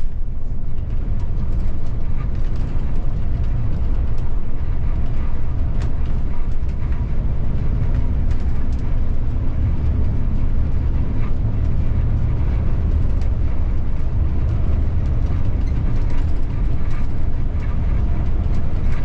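City bus on the move, heard from the driver's cab: a steady low engine and road rumble with occasional faint clicks.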